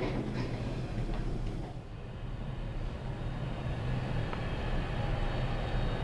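Steady low rumble and hum of a vehicle in motion, heard from inside.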